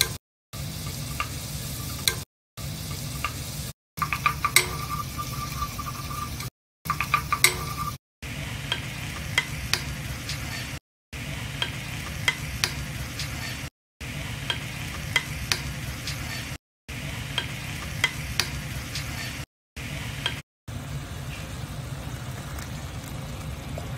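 Onion, garlic and then chopped purslane frying and sizzling in a non-stick pan while a wooden spoon stirs and scrapes, with a few sharp taps of the spoon about four and seven seconds in. The sound drops out briefly every two or three seconds.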